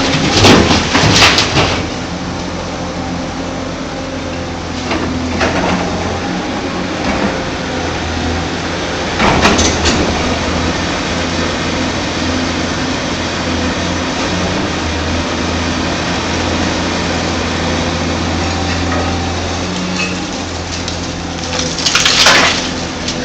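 Heavy excavator's diesel engine running steadily, with loud crashes of rock or dirt dropping into a dump truck bed about a second in, near the middle and near the end.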